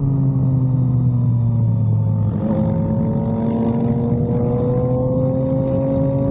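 Yamaha MT-09's inline-three engine through an SC Project exhaust: revs fall off for about two seconds, step up with a gear change about two and a half seconds in, then rise slowly as the bike gently accelerates.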